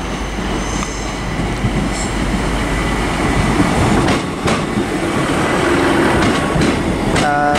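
Class 150 Sprinter diesel multiple units rolling in, a steady rumble of engines and wheels on rail that grows louder, with a few sharp clicks from wheels over rail joints. Near the end a steady multi-note train horn starts and holds.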